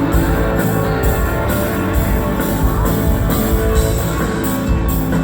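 Live rock band playing a song: electric guitar over a drum kit, with cymbals keeping a steady beat, as heard from the audience.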